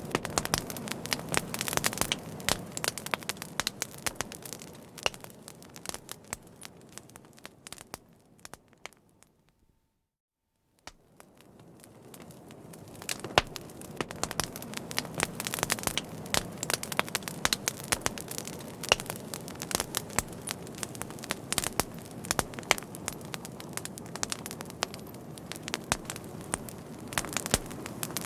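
Fire crackling, with frequent sharp pops over a soft low rumble. About a third of the way in it fades out to silence for roughly two seconds, then fades back in and carries on crackling.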